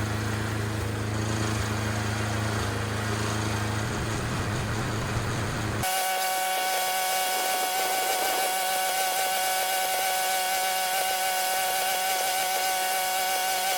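Small gas snow blower engine running steadily. About six seconds in, the sound changes abruptly to a steady, high-pitched whine made of several pitches held together.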